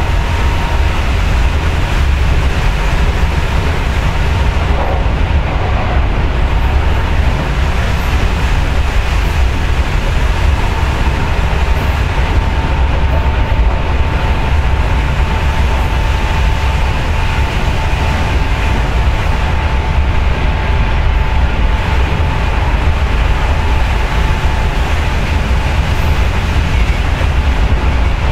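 Running sound of a 6050-series electric train heard inside the passenger car: a steady heavy rumble of wheels and running gear on the rails. A faint high steady whine runs through the middle stretch.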